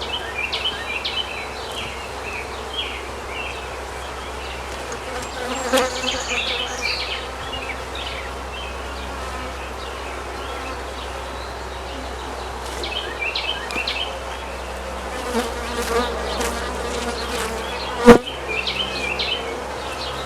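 Honey bees buzzing steadily around an open hive. A few clattering knocks of hive frames being handled, the loudest a single sharp knock near the end.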